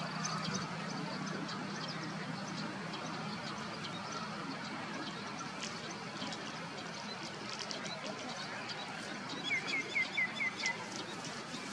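Steady outdoor background hiss with scattered faint ticks; about ten seconds in, a bird calls a quick run of six short falling chirps, the loudest sound.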